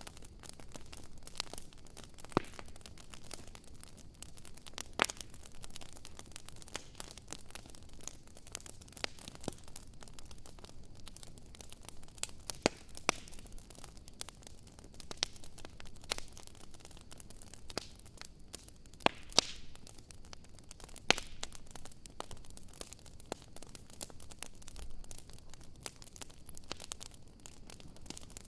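Campfire crackling: a soft steady hiss with irregular sharp pops and snaps, a few of them much louder than the rest.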